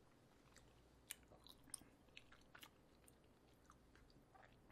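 Faint chewing of a mouthful of food, with a few small wet clicks in the first three seconds.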